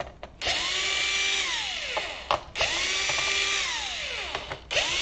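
Small electric power driver backing out screws from the underside of a laptop: three short runs, each spinning up to a steady whine for about two seconds and then winding down, the third starting near the end.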